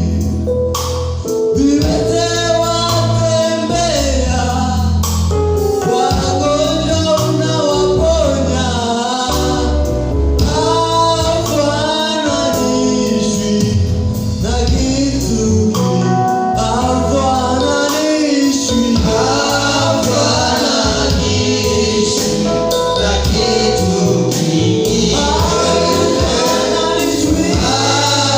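Gospel worship song with lead and choir vocals over a steady bass.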